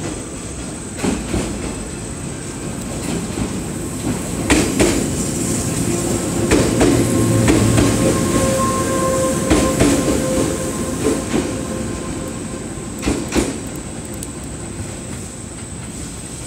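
JR West KuMoYa 443 electric test car running past along the platform, its wheels clacking over rail joints in single and paired clicks. The rumble builds to its loudest about halfway through as the car passes, with a thin steady whine for a few seconds, then fades as the car moves away.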